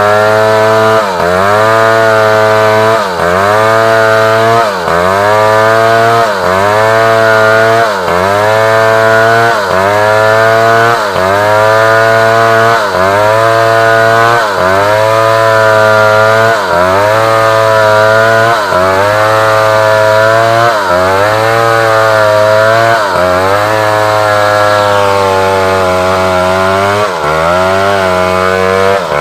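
Large chainsaw cutting through African wood, its engine pitch sagging and recovering over and over, roughly every one and a half to two seconds, as the chain bites into the wood and eases off. It runs somewhat steadier and lower near the end.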